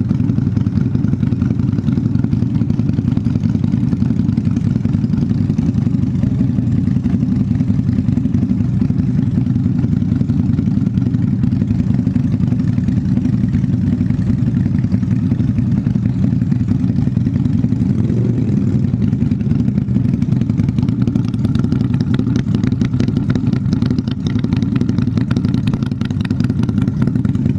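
QJMotor SRV 250's V-twin engine idling steadily.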